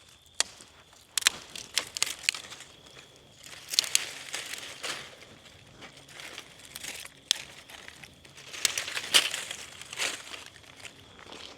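Irregular crinkling and rustling, broken by a series of sharp crackles, the loudest about nine seconds in.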